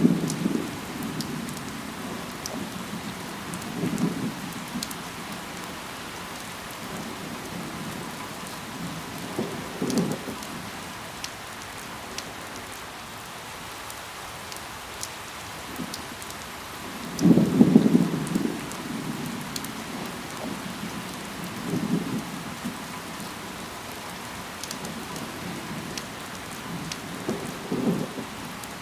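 Steady rain falling, with scattered sharp drop ticks. Short low rumbles come every few seconds, the largest about seventeen seconds in.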